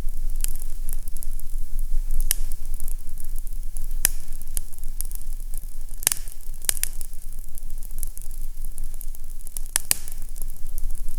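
Fireplace fire crackling, with irregular sharp pops scattered through it, over a steady low rumble.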